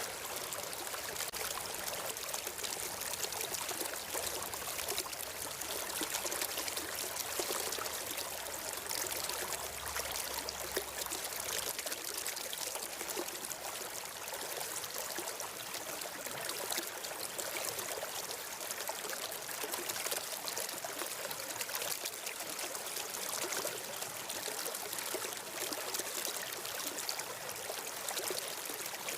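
Flowing stream water running steadily, a continuous trickling rush of water.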